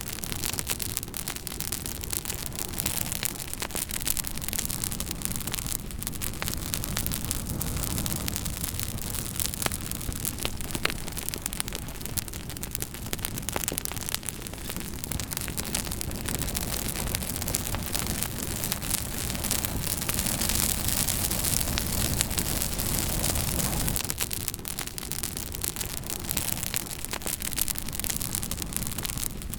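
Campfire burning, with many small sharp crackles and pops over a steady rushing noise.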